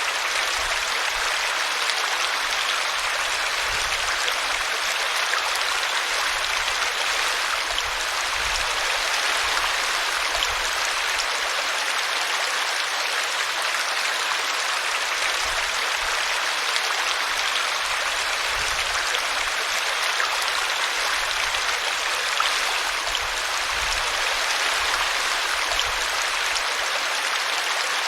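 A small brook running and splashing steadily as it tumbles over a tree root, an even rush of water.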